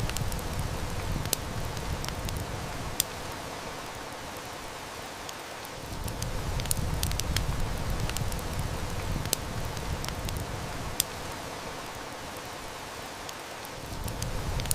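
Steady heavy rain with a wood fire crackling, its sharp snaps scattered irregularly and loudest at about three and eleven seconds in. A low rumble under the rain fades out twice, around four to six seconds in and again near the end.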